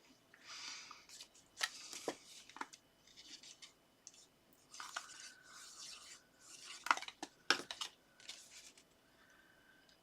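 Paper and card strips handled and slid into place on a work surface: short rustling scrapes and a few sharp taps.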